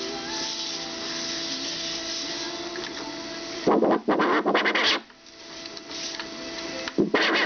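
Film soundtrack coming out of an ELMO Sound Editor 912/S film viewer's speaker as the film is hand-cranked past the sound head: a steady hum, then two loud stretches of garbled, rasping sound about four and seven seconds in.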